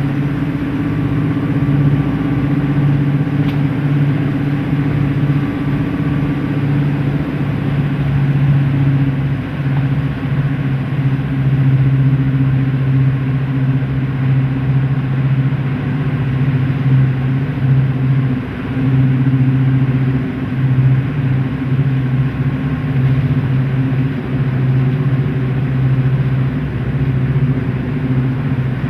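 Class 55 Deltic locomotive's twin Napier Deltic two-stroke diesel engines running steadily and loudly.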